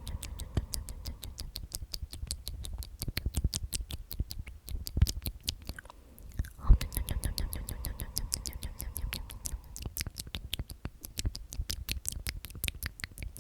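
Close-miked ASMR mouth sounds: whispered 'omnomnom' repetitions with rapid wet clicks and smacks, several a second.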